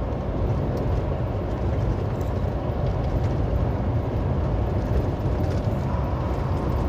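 Semi truck's cab at highway speed: a steady low rumble of diesel engine and road noise.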